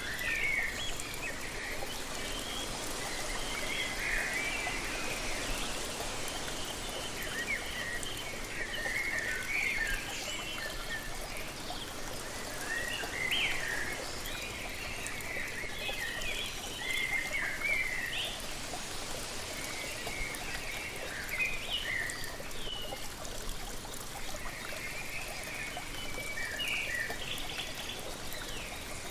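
Steady rush of falling water from a waterfall, with birds chirping and singing in short, frequent phrases throughout.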